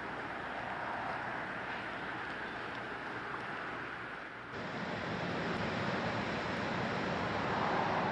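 Steady outdoor background noise, a hiss with no distinct events, that changes abruptly and grows a little louder about halfway through.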